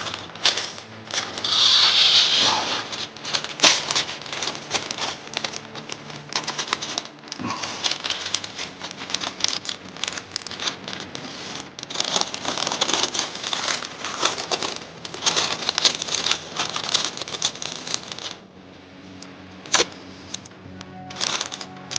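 Masking tape pulled and torn off the roll and masking paper crinkling while a motorcycle fender is masked off for primer. A busy, irregular run of crackles and rips eases off about eighteen seconds in, with a few more bursts near the end.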